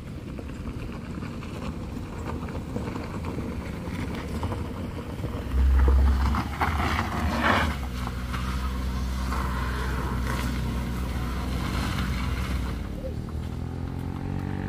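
A car engine working hard as it climbs a steep, rough gravel slope. There is a brief heavy low rumble about six seconds in, then a steady engine note that rises in pitch near the end as the car pulls up the grade.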